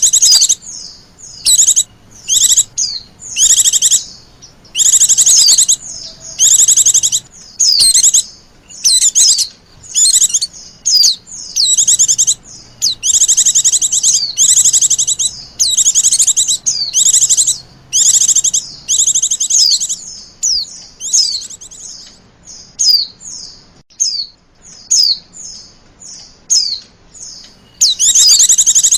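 Pleci (white-eye) birds calling excitedly in a lure recording. Rapid high-pitched chirping trills come in bursts of about a second with brief gaps, thinning to shorter separate chirps later on, with one more dense burst near the end.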